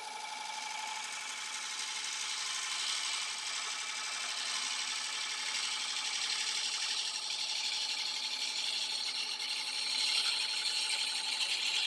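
Steel bowl gouge being sharpened against a spinning grinding wheel: a steady grinding hiss that grows a little louder near the end.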